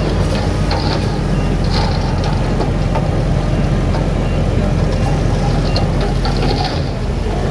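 Heavy diesel earthmoving machinery running steadily, with brief high-pitched squeals or scrapes a few times.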